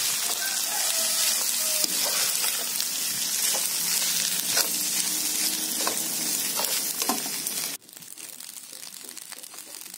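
Fried rice sizzling in a wok while a metal spatula stirs and turns it, with scattered scrapes and light clinks of the spatula against the pan. The sizzle stops abruptly near the end, leaving only a faint background.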